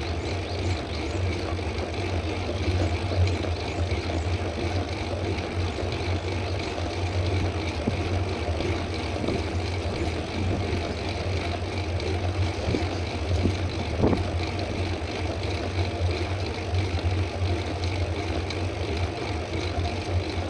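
Steady wind rush buffeting a camera microphone on a moving mountain bike, with road and tyre noise underneath.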